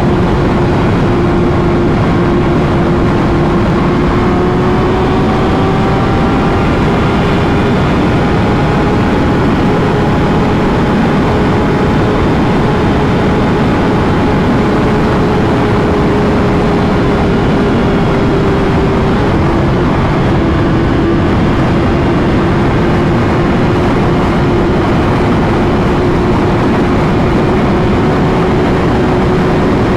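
Motorcycle engine running at a steady cruising speed under heavy wind rush, its note holding nearly level and easing down slightly about two-thirds of the way through.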